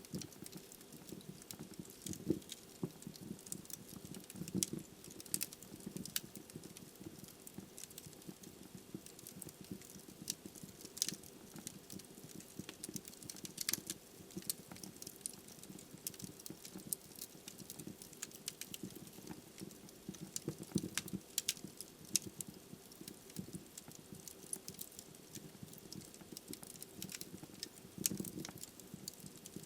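Wood fire burning in a fireplace, crackling and popping irregularly over a low, steady rush of flames.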